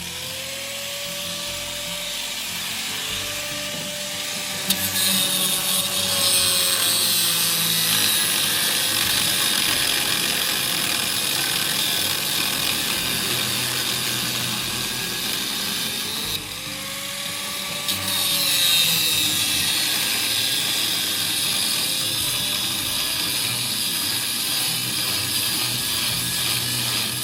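Angle grinder grinding metal, a steady harsh grinding, with the motor's whine swelling and falling back near the start and again about two-thirds through.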